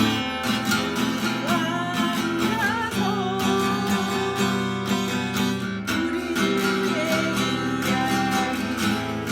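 Acoustic guitar strummed in a 3/4 waltz rhythm, working through the open C, G7, simplified F, A minor and D minor chords of the song's accompaniment.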